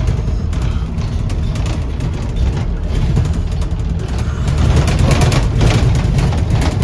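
Heard from on board a Scania N230UD Optare Olympus double-decker bus in motion: a steady low diesel engine rumble with rattles from the body, getting louder about four and a half seconds in.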